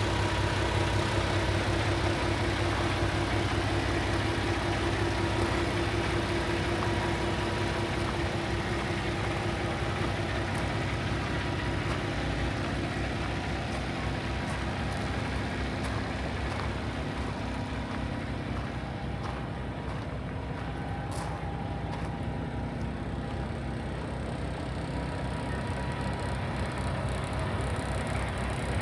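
Paccar MX-13 diesel engine of a 2018 Peterbilt 579 day cab idling steadily, with a faint higher whine in the first several seconds that fades away.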